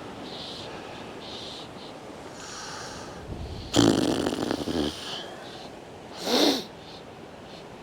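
A man snorting and sniffing through his nose close to a clip-on microphone, over a steady hiss of wind. There is a loud snort about four seconds in and a shorter one just after six seconds.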